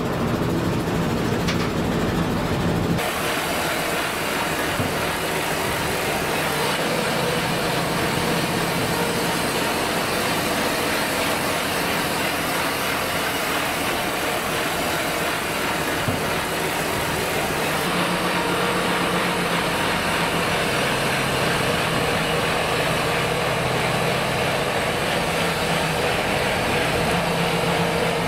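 Heavy diesel machinery running steadily, with an engine drone under a broad mechanical noise and an abrupt change in the sound about three seconds in.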